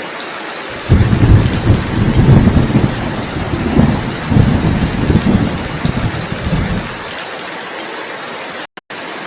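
Steady heavy rain hiss with a long, loud, low rumble of thunder that sets in about a second in and dies away after about six seconds. The sound cuts out for a moment near the end.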